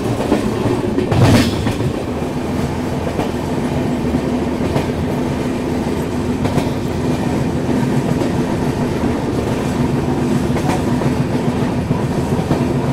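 Passenger train running along the track, heard from an open coach doorway: a steady rumble of wheels on rail with scattered clacks, and one louder knock about a second in.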